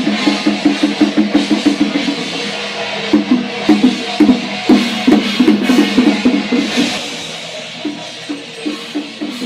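Fast drumming on a large Chinese ceremonial drum, in quick runs of strokes, with a short lull about two seconds in, then spaced, irregular strikes that grow softer and sparser near the end.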